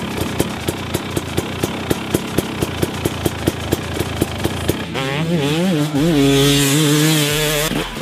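A regular beat of about two to three thumps a second, then from about five seconds in a single-cylinder two-stroke motocross engine (2017 KTM 250 SX) revving loudly, its pitch rising and falling with the throttle.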